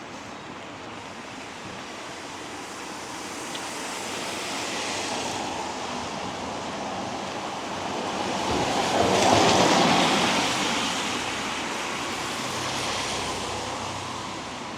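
Cars passing on a wet road, the hiss of their tyres on the wet surface swelling and fading; the loudest passes about nine seconds in.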